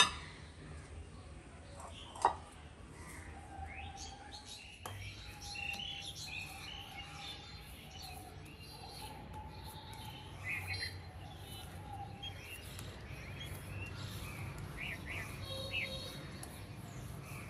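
Small birds chirping with many short, faint calls throughout. Two sharp knocks come in the first few seconds.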